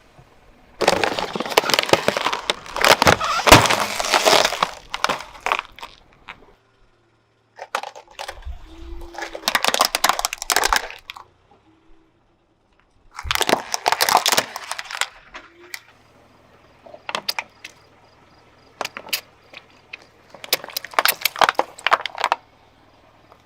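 Car tyre rolling over and crushing brittle objects: several separate bursts of crackling and breaking, with short quiet gaps between them.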